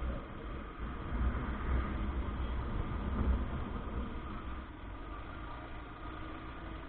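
Motorcycle running along the road: a steady engine-and-road rumble, somewhat louder during the first few seconds.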